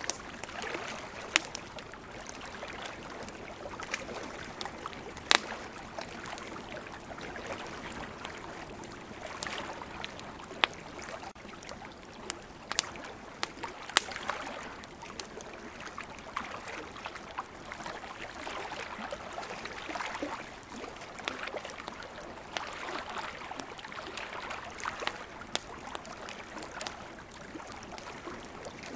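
Campfire crackling, with sharp pops scattered through, over ocean waves washing in and out in slow swells.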